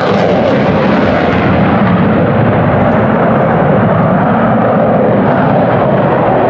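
F-35 fighter jet's single afterburning turbofan engine flying overhead: a loud, steady jet rumble, its hiss easing a little after a second or two.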